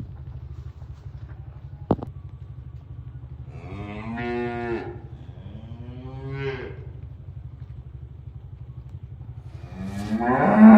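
Cattle mooing: two calls a few seconds in, then a louder one near the end. A single sharp click comes just before the first, over a steady low hum.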